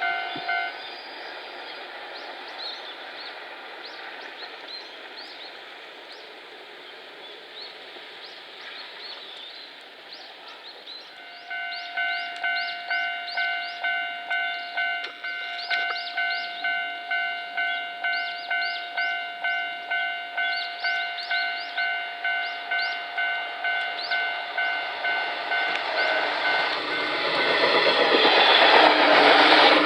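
A railway level-crossing bell rings in an even pulse, about one and a half strokes a second, from about eleven seconds in. Near the end a JR Series 115 electric train comes up, and its running noise swells to become the loudest sound.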